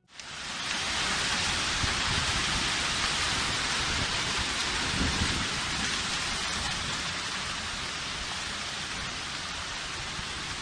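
Heavy hailstorm downpour: rain and hail falling hard, a dense steady hiss that starts suddenly and eases slightly toward the end.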